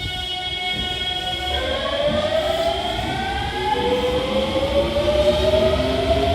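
Hankyu 8000 series electric train pulling away, its inverter and traction motor whine holding steady pitches and then rising smoothly from about a second and a half in as the train accelerates, over the low rumble of the wheels.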